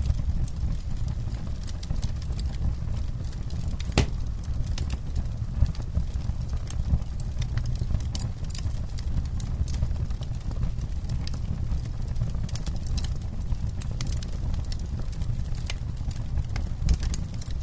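Campfire burning, wood crackling with frequent sharp pops over a steady low rumble of the flames. One louder pop about four seconds in.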